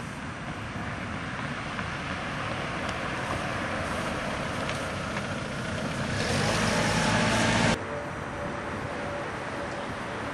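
Steady rushing noise of a vehicle on the road. It grows louder about six seconds in, then drops suddenly near eight seconds.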